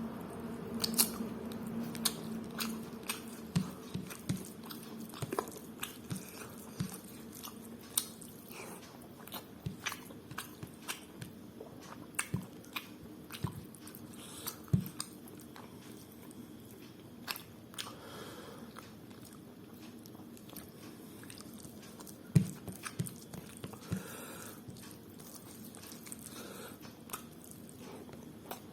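Close-miked chewing of spicy mutton curry with pulao: wet mouth clicks and smacks, frequent in the first half and sparser later.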